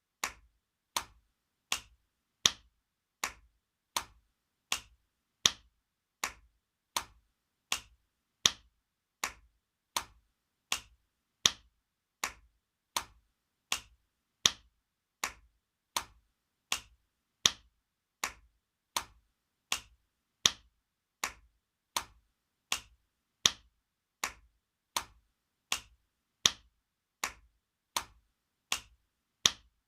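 Spanking sound effect: a hand slapping skin in sharp smacks, repeated evenly about every three quarters of a second, some strikes louder than others.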